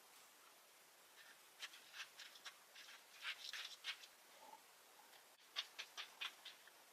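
Faint rustling and light scratching clicks in two short clusters, one from about a second and a half to four seconds in and another near the end.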